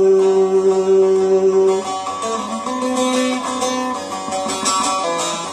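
Instrumental break in a folk song: a plucked string instrument plays a melody. A long held note ends about two seconds in.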